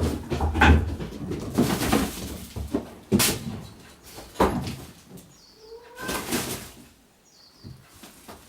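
Kittens calling with short mews and high squeaks, mixed with scuffling and knocks from their play; the busiest stretch is the first half.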